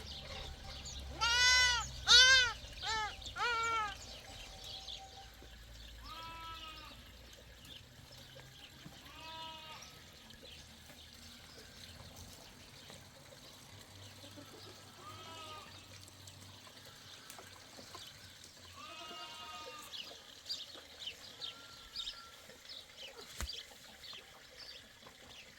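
Goats bleating: a loud run of about four bleats in the first few seconds, then fainter single bleats every few seconds, with light clicks near the end.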